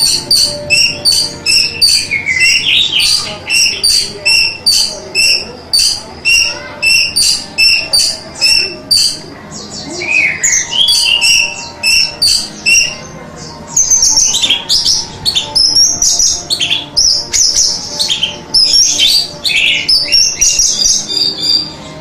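Orange-headed thrush (anis merah) singing. It opens with a run of short repeated notes, about two a second, and from about halfway turns to a faster, varied warbling song.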